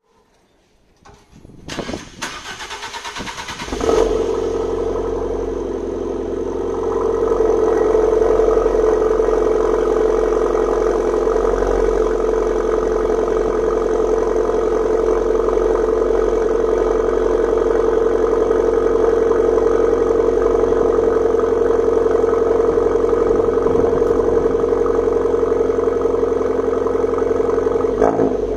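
Abarth 500's 1.4 T-Jet turbo four-cylinder, fitted with a Niba Racing 200-cell sports catalytic converter and Inoxcar FICQ-03 rear silencer, cranked on the starter for about two seconds before it catches about four seconds in. It then settles into a steady idle through the exhaust, which grows a little louder about seven seconds in; the note is amplified but still deep and muffled.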